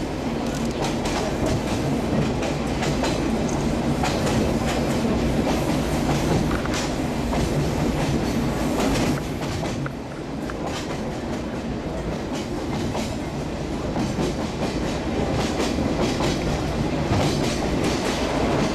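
Sagano Scenic Railway train running along the track, heard from on board: a steady rumble with the wheels clicking over the rail joints. The sound eases briefly about nine seconds in.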